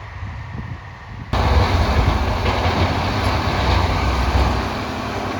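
Heavy farm engine running with a deep rumble, most likely a tractor working the bedding. It cuts in abruptly about a second in and runs on steadily.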